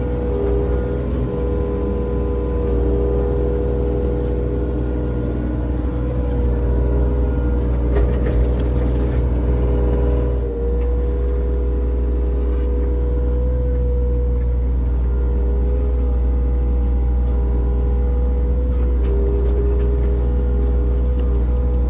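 Heavy engine-driven machine running steadily at constant speed, a deep drone with a steady whine over it, dipping briefly about halfway through.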